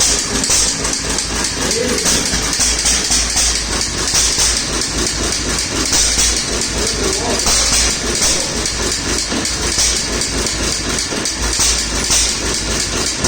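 Small Waterloo Boy single-cylinder stationary engine running steadily, with a regular pulsing beat.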